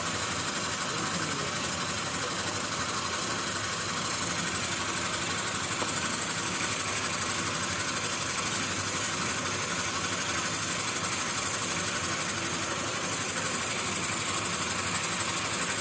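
A small engine or motor running steadily at a constant speed, with a fast, even chatter.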